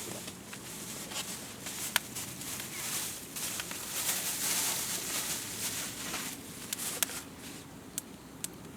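Wood campfire burning with a steady hiss and scattered sharp crackling pops, a few seconds apart.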